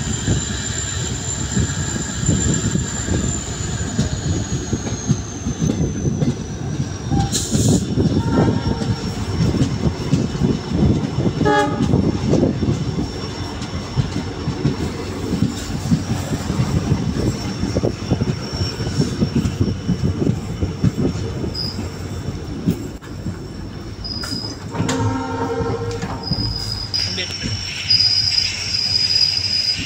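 Express passenger train moving off from a station, heard from the coach doorway: steady wheel rumble and clatter over rail joints and points, with a thin high wheel squeal that comes and goes near the end. A train horn sounds for about a second and a half about 25 seconds in.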